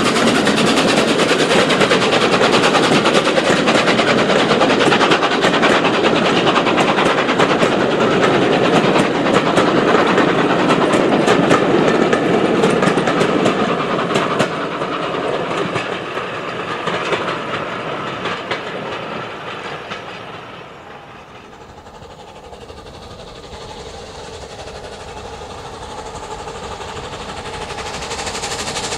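A steam-hauled train of passenger coaches behind LNER A3 'Flying Scotsman' rolling past, wheels clicking over rail joints. The train is loud for about the first half, then fades away as it recedes.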